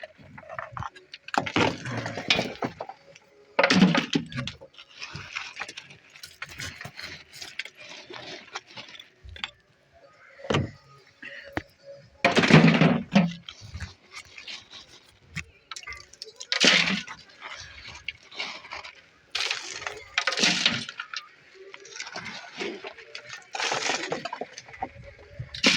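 Brick wall being broken out: irregular bursts of crumbling, cracking brick and clattering rubble as a square opening is chiselled through, with a few loud crashes spread through.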